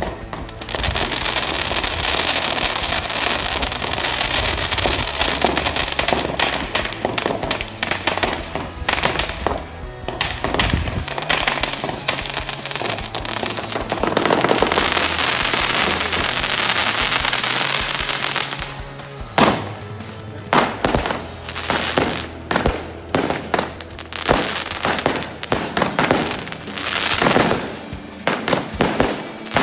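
Fireworks going off: for more than half the stretch, a dense, continuous crackling with a high wavering whistle for a few seconds in the middle; then, in the last third, a rapid series of sharp separate bangs. Background rock music plays underneath.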